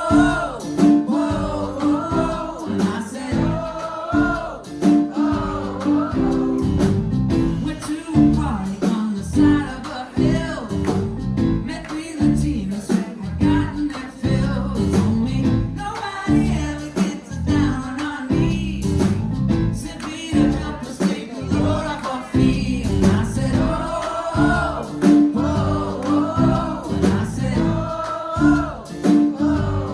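A live band playing a pop-rock song: a sung lead vocal over guitar, with a steady beat.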